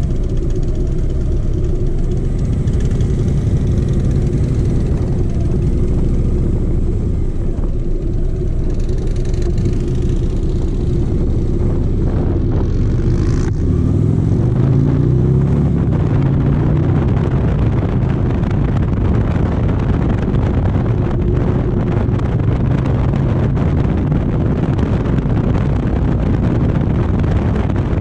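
Motorcycle engine idling at a stop, then accelerating away with rising revs about halfway through, and running steadily at cruising speed with more wind and road noise once moving.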